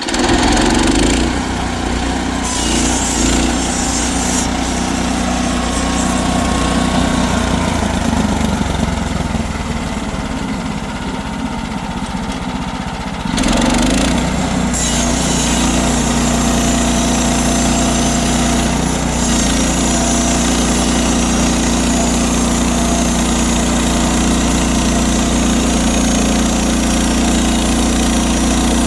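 Portable sawmill's small engine running steadily under load while the mill saws through a log. The sound shifts and grows a little louder about halfway through, then holds steady.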